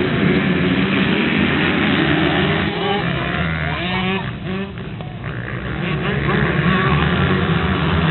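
A pack of motocross motorcycles pulling away together from a race start, their engines running hard in a continuous din. The sound dips for a moment about halfway through, then swells again.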